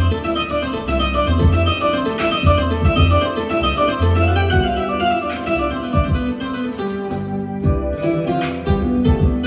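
Instrumental break of a pop song's backing track: sustained keyboard or organ chords over a pulsing bass line and a steady drum beat, with no vocal.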